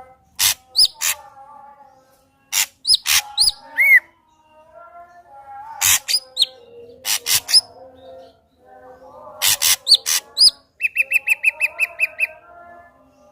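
Ashy drongo singing a varied, loud song: sharp clicking notes and short rising whistles, mixed with lower warbling phrases. About two-thirds of the way in comes a rapid trill of a dozen or so repeated notes.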